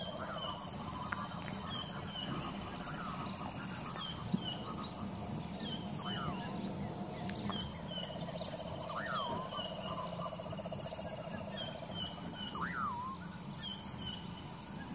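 Bird calls over a steady hum: many short high chirps, a louder rising-and-falling whistle about every three seconds, and a low trill partway through.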